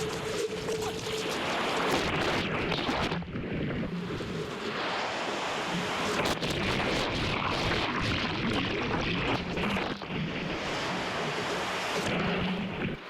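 Ocean surf rushing, mixed with wind buffeting the microphone.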